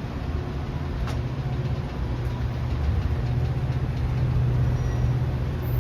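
Diesel locomotive engine running with a steady low hum, slowly growing louder.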